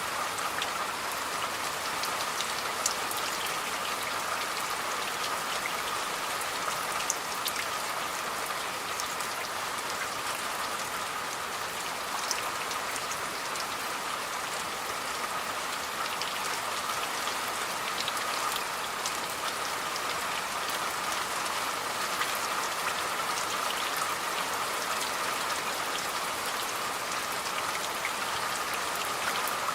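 Steady rain falling on a surface, an even hiss with scattered individual drops ticking sharply through it.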